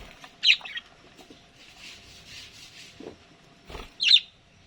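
Budgerigars calling: two short, sharp high chirps, one about half a second in and one near the end, with faint soft sounds between.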